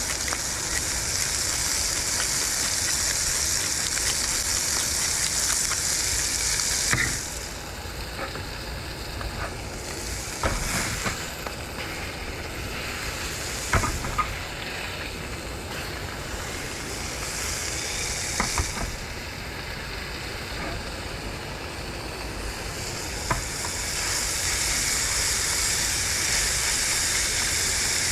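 Food sizzling in a frying pan, a steady hiss that eases off for a while in the middle, with a few sharp knocks along the way.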